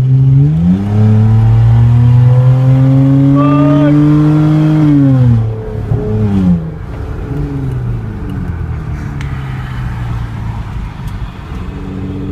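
2006 Hyundai Sonata V6 with its mufflers, resonator and catalytic converter removed, accelerating hard under open exhaust. The loud engine note climbs and holds high for about five seconds, drops sharply, rises briefly once more, then settles into a steadier, quieter cruising drone.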